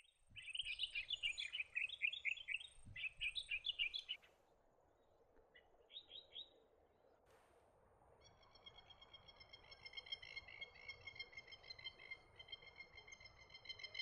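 Bird calls: a fast chattering series of high notes for about four seconds, a short call around six seconds in, then a steady rapid trill from about eight seconds on.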